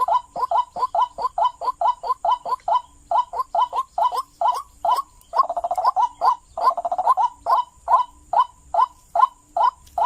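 White-breasted waterhen (ruak-ruak) calling, a rapid run of repeated 'kru-ak' notes at about three a second, with two longer, rougher notes near the middle. It is the call used to lure waterhens.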